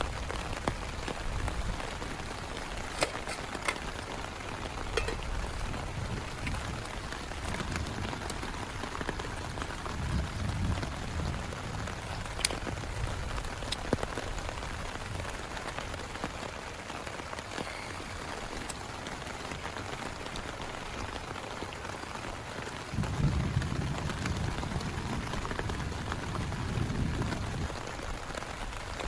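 Steady heavy rain, with scattered sharp ticks of single drops striking close by. A low rumbling swell comes in about ten seconds in, and a louder one builds near the end and fades again.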